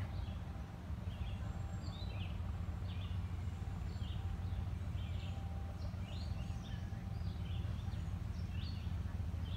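Birds chirping, a string of short calls scattered throughout, over a steady low rumble.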